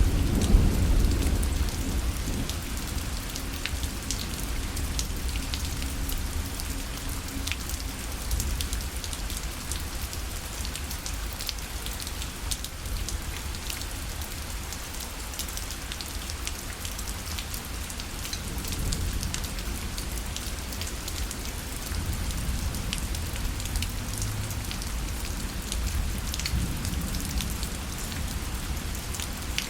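Steady rain falling on a parasol, a dense patter of drops tapping its fabric. A low rumble of thunder dies away in the first second or two.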